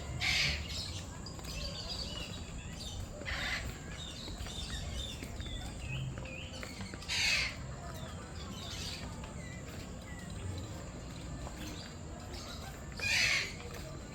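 Caged birds calling in an aviary: four loud, harsh squawks, several seconds apart, over a background of many small birds chirping.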